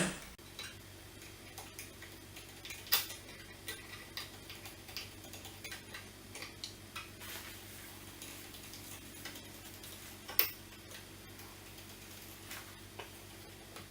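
Flathead screwdriver turning a small pin into the metal handle bracket of a Pegas CrafTap 3.0 growler filler: faint, scattered light ticks and clicks, with two sharper clicks, about three seconds in and about ten seconds in. A faint steady hum lies underneath.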